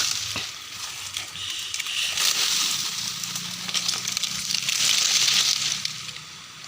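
Strong gusty wind rustling through vegetation, a hiss that swells and eases in waves.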